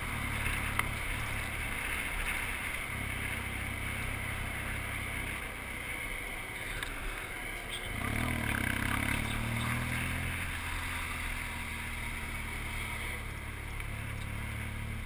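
BMW R1200GS boxer-twin engine running while the motorcycle rides along, recorded from the bike. About eight seconds in the engine note rises and grows louder as the bike accelerates.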